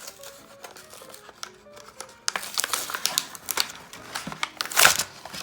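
Plastic toy packaging crinkling and crackling as it is handled and opened, starting faintly and turning loud and dense from about two seconds in, over light background music.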